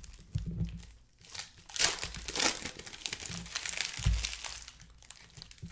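Foil trading-card pack wrappers crinkling and tearing as packs are ripped open, in several short bursts, with a couple of dull thuds of cards being handled.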